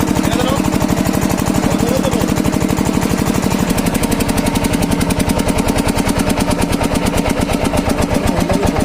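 Kirloskar diesel engine running steadily with a rapid, even chugging beat. Its tone shifts slightly about four seconds in.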